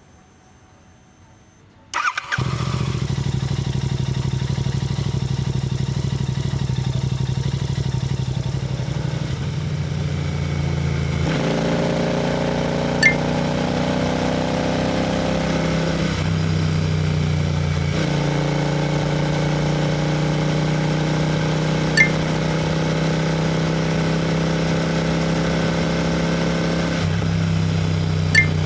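Royal Enfield GT 650's 648 cc parallel-twin engine and exhaust while riding, cutting in abruptly about two seconds in after near silence. The note runs steady, shifting in pitch a few times, with three short sharp ticks over it.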